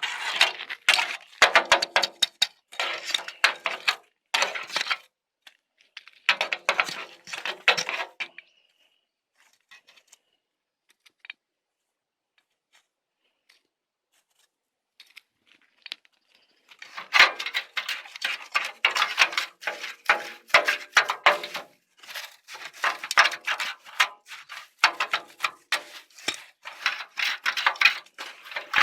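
Dry twigs and branches crackling and snapping in dense bursts, with a quiet stretch of several seconds in the middle.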